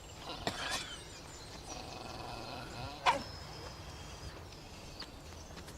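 Rural outdoor ambience with birds singing, over a low steady rumble. A single short, sharp sound about three seconds in stands out.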